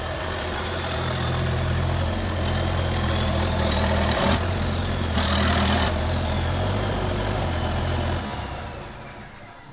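John Deere 4430's six-cylinder diesel running steadily, with a high whistle that rises and falls twice mid-way and two short bursts of hiss. The engine sound drops away about eight seconds in.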